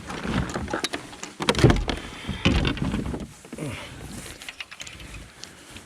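Knocks, scrapes and rustling of gear being handled in a fishing kayak, with a heavier thump against the hull about one and a half seconds in.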